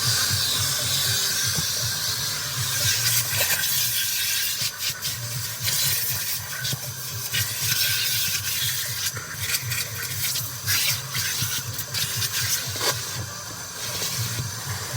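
Vacuum cleaner running on a car's interior: a steady suction hiss over a low motor hum, with scattered clicks and knocks from the nozzle.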